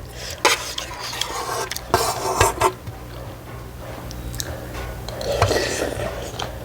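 Utensils clinking and scraping against dishes while eating ramen: a few sharp clinks in the first few seconds, then a longer stretch of softer scraping and eating noise.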